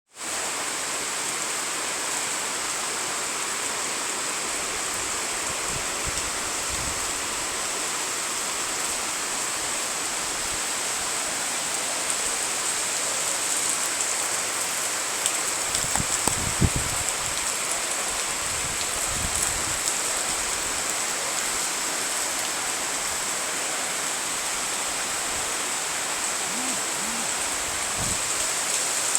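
Heavy rain pouring down in a steady, dense hiss, with a few low thumps a little past halfway through.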